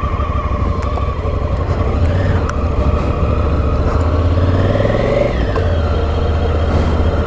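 Motorcycle engine running steadily at low revs, its pitch wavering a little, as the bikes get ready to ride off.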